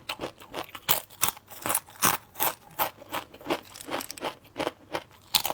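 Crisp sweet potato chips crunching as they are chewed close to the microphone, about three crunches a second.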